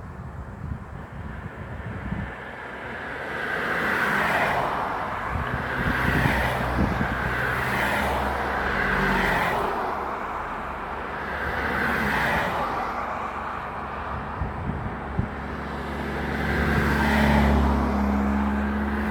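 Road traffic: several vehicles passing one after another, each a swell of tyre and engine noise that rises and fades, over a steady low rumble. Near the end a low engine tone rises, as of a vehicle pulling away.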